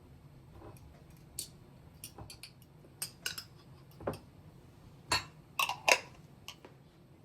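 Kitchen dishes and utensils being handled: a scatter of short clicks and clinks, with the loudest knocks coming in a quick cluster a little after five seconds in.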